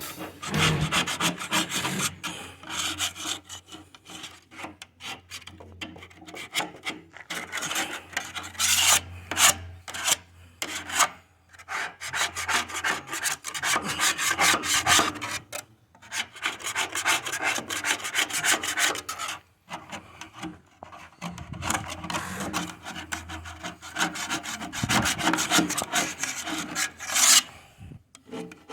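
Paint being scraped off a truck fuel tank by hand after aircraft paint stripper has softened it: quick, irregular rasping strokes, with a few short pauses.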